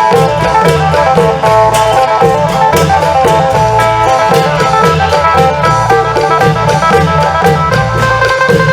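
Isan folk music: a phin, the plucked Isan lute, plays a fast run of notes over the low beat of klong yao long drums and sharp percussion strokes.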